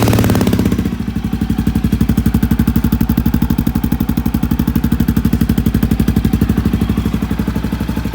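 Honda CRF250F single-cylinder four-stroke dirt bike engine running loud through a Pro Circuit T6 aftermarket exhaust. It comes down from a brief rev in the first second and settles into a steady idle with an even exhaust pulse.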